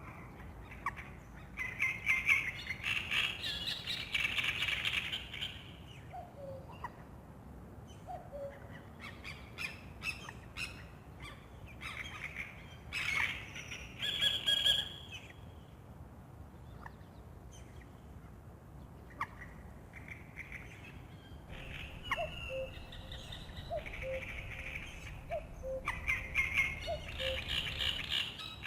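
Songbirds singing a dawn chorus in bursts of chirps and trills, with a common cuckoo calling its low two-note falling "ku-koo" twice early on and several times in a row near the end.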